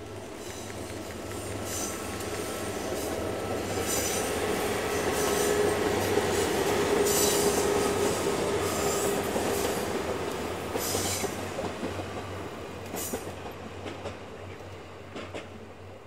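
KiYa E193 'East i-D' diesel track-inspection train, with a Maya 50 inspection car coupled, passing by. Engine and wheel noise swell to a peak about halfway through and then fade away, with wheels clicking over rail joints at uneven intervals.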